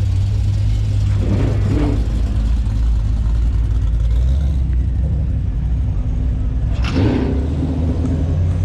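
Car engine rumbling steadily at low revs, with a short rev about seven seconds in.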